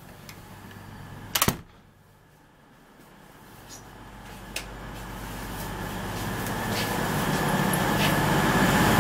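A short burst of loud clatter about a second and a half in. Then the running noise inside a Class 319 electric multiple unit's saloon rises steadily, a low rumble and hiss growing louder as the train gathers speed.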